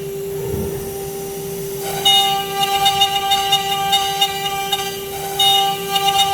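Steady high whine of a CNC router spindle. About half a second in there is a low thump with a hiss of air, before background music with light ticking percussion comes back in for the rest.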